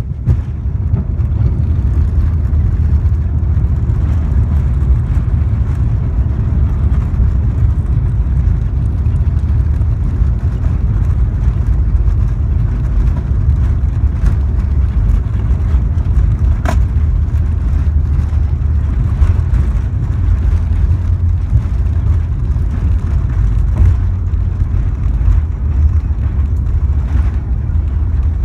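Steady low rumble inside the cabin of an Airbus A350-941 airliner in flight: engine and airflow noise from its Rolls-Royce Trent XWB engines, even throughout. A single brief click sounds about two-thirds of the way through.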